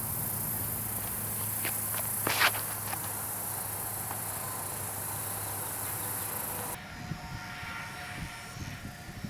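Outdoor field sound of insects giving a steady high-pitched chirring, with a few short sharp sounds around two seconds in, the loudest about two and a half seconds in. The insect sound drops out abruptly about seven seconds in, leaving a quieter, lower background.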